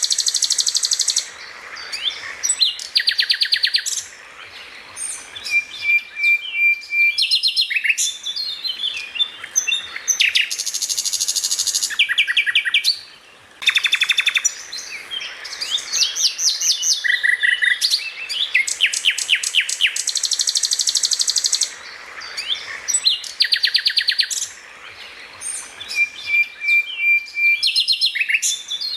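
Songbird singing loudly and without stopping: fast rattling trills of evenly spaced high notes, quick chattering volleys and short sharp chirps, broken by brief pauses. Twice a single level whistle is held for over a second. The same sequence seems to come round again, as in a looped masteran recording.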